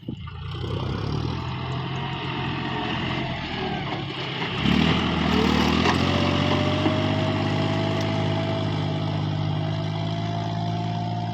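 John Deere 5055E tractor's diesel engine running, getting louder about four and a half seconds in, then holding steady with a faint whine that rises slowly in pitch.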